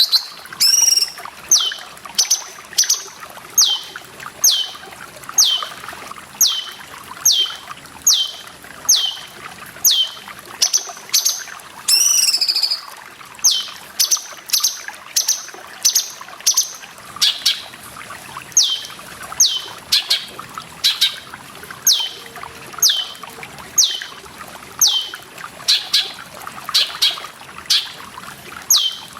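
Cucak cungkok calling over and over, a short note sweeping down in pitch about once every three-quarters of a second, with a longer call about twelve seconds in, over a steady trickle of running water.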